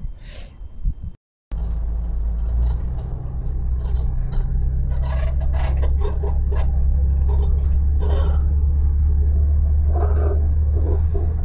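A regional passenger train running, heard from inside the carriage: a steady, loud low rumble with scattered short rattles. It begins after an abrupt cut about a second in.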